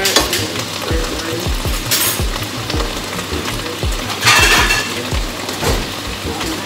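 Peppers, onions and mushrooms sizzling in hot oil and soy sauce in a pot, stirred with a fork at first. Background music with a deep, steady bass beat plays over it.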